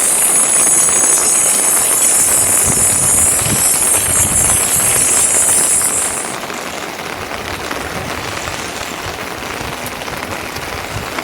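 Steady rain falling. A loud, high hiss lies over it for roughly the first six seconds, then stops.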